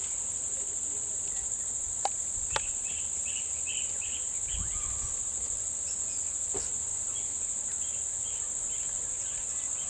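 Steady high-pitched chorus of insects, with two sharp clicks a little after two seconds in and short faint chirps repeating through it.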